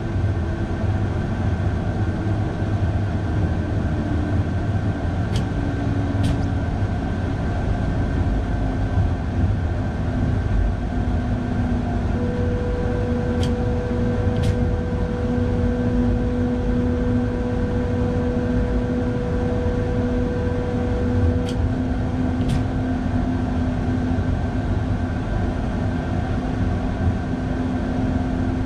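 Electric train's cab ride up snow-covered track: a steady low rumble of wheels and running gear with a motor hum that sinks slightly in pitch over the first ten seconds and then holds. Pairs of light clicks about a second apart come every eight seconds or so.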